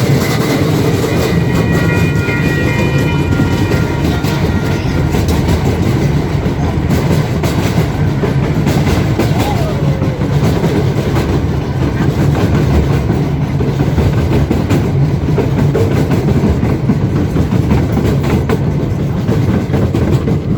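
Narrow-gauge park train running: a steady rumble with the wheels clicking over the rail joints.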